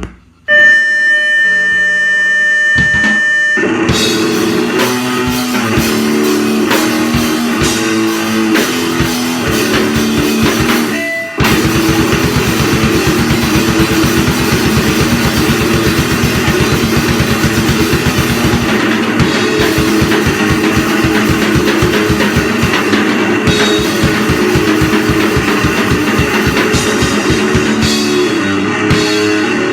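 Live powerviolence/grindcore band: a sustained high guitar-feedback tone for the first few seconds, then distorted guitars, bass and drums come in together. After a short break about eleven seconds in, the band goes into very fast drumming under the distorted guitars.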